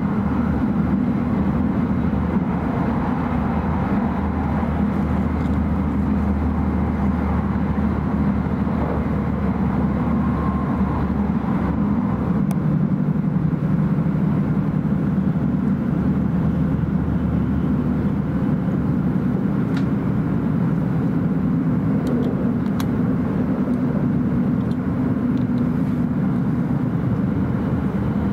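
Steady running noise inside the passenger cabin of an E5 series Shinkansen train: a constant low rumble of wheels, track and air, with a few faint clicks.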